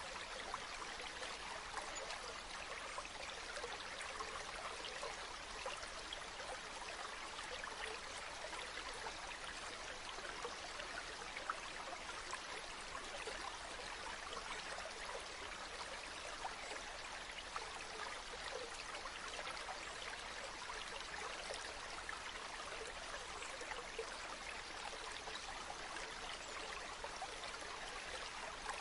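Water from a spring running and trickling steadily, a continuous rushing with many small splashes and drips in it.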